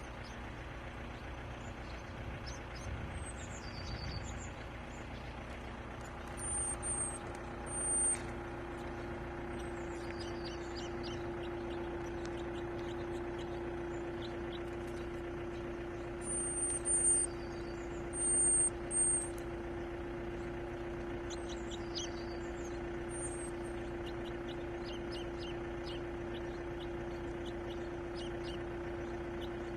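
Birds chirping with short, high, thin whistled calls, loudest in two clusters about a third and about two-thirds of the way through, over a steady low mechanical hum.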